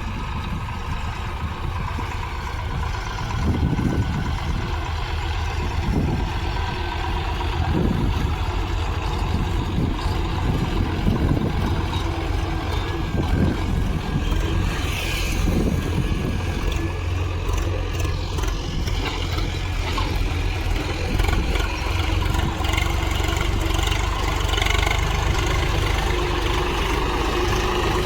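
Diesel farm tractor engine running steadily with a continuous low drone.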